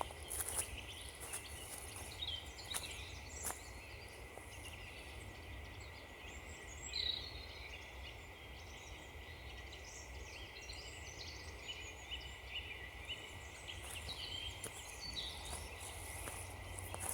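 Small woodland birds singing and calling: many short chirps and trills. Footsteps crunch on frozen ground in the first few seconds and again near the end.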